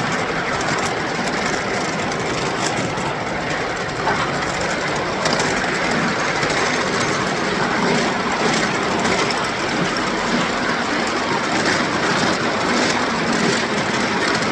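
Ride-on miniature railway train running along its track: a steady rumble of wheels on rail, with occasional faint clicks.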